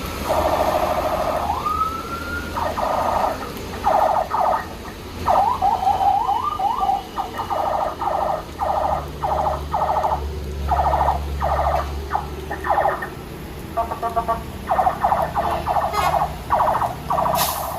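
Vehicle horns honking in many short, irregular blasts, some rising in pitch as they start, with a truck engine running low underneath.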